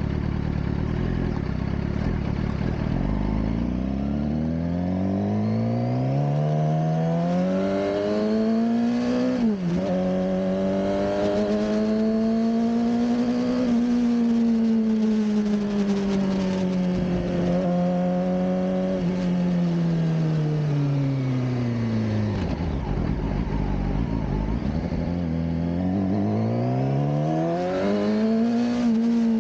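2007 Suzuki GSX-R600 (K7) inline-four engine under way. It pulls up from low revs, dips briefly at a gear change about nine seconds in, holds steady revs, drops off a little past twenty seconds as the bike slows, then revs up again near the end.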